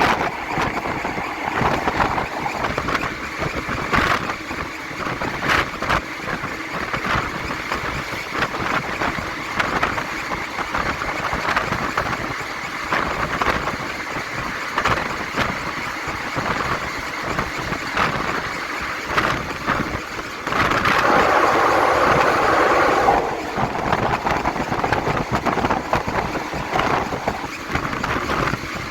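Passenger train running along the track, heard from on board: a steady rumble and rush of air with irregular clacks of the wheels over rail joints. For about two seconds, about two-thirds of the way in, the rush grows louder.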